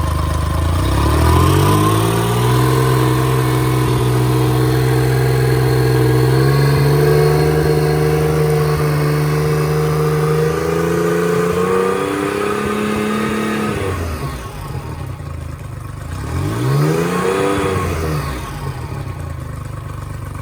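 Honda 50 hp four-stroke outboard motor running: it revs up about a second in and holds a steady higher speed for some ten seconds, drops back to idle, then gives one short throttle blip that rises and falls before settling again.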